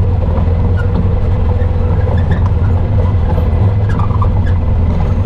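Off-road vehicle engine running at a steady pace while riding a dirt trail, a constant low drone.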